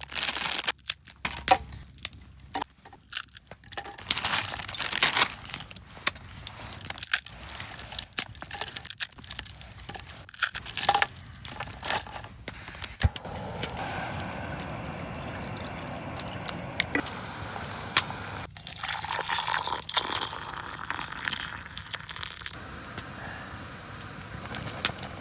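Food packaging crinkling and tearing open among many short clicks and knocks, then a steadier hiss from about halfway through.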